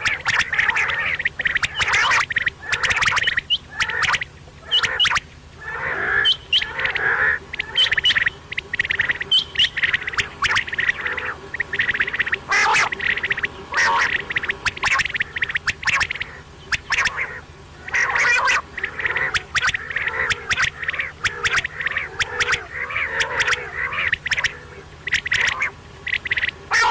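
Quail calling: a dense, unbroken run of rapid, harsh chattering calls.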